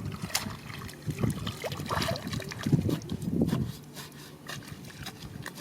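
Water sloshing and trickling, with scattered clicks of stones knocking together. The sloshing is heavier in the first three and a half seconds or so, then the sound turns quieter.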